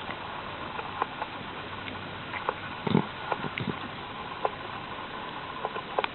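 Scattered soft taps and rustles over a steady hiss, a cluster of them about three seconds in: a cat moving about on bedding.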